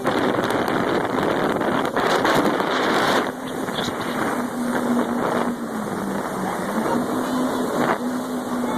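Jet ski engine running at speed under a heavy rush of wind noise on the microphone; the engine note drops briefly about six seconds in, then comes back up.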